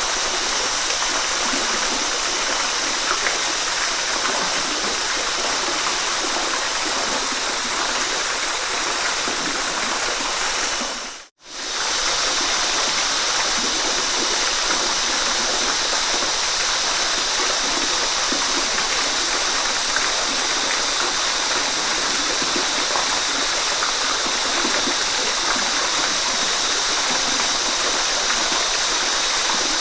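Waterfall rushing steadily with an even, hissing water noise. About eleven seconds in it briefly dips to near silence and returns, like a quick fade between two takes.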